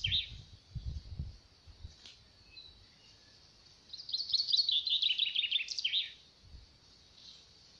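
A songbird sings one quick trill of high notes, falling in pitch and lasting about two seconds, starting about four seconds in. A few soft low thumps come in the first second or so.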